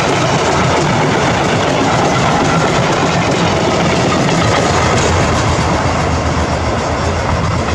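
Freight train passing at speed, its wagons' wheels rolling on the rails in a steady, loud rush that eases slightly near the end.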